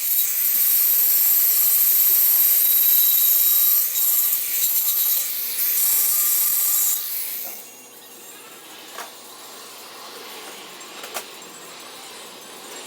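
A handheld power tool grinding sheet metal with a steady high-pitched whine, running about seven seconds and then shutting off, followed by a few light taps.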